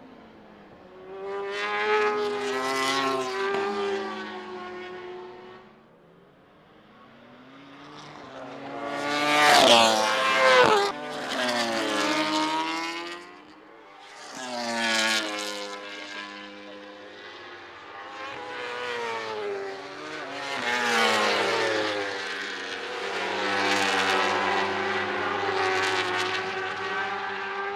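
Racing superbikes at full throttle, several passing one after another. The engine note climbs through the revs and drops as each bike goes by, and the loudest pass comes about ten seconds in.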